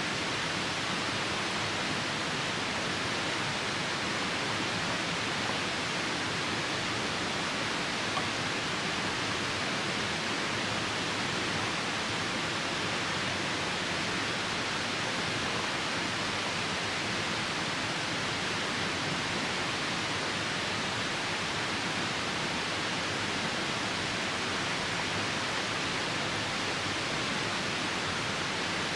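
Steady rushing of a nearby river mixed with falling rain, an even hiss that does not change.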